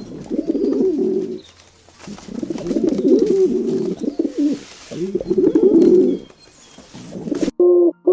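Doves cooing in three low, wavering bouts. Near the end the cooing cuts off suddenly and short repeated musical notes begin.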